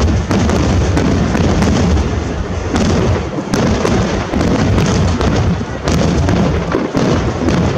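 Aerial fireworks shells bursting in a rapid, overlapping barrage: a continuous run of sharp bangs and crackles with barely a pause.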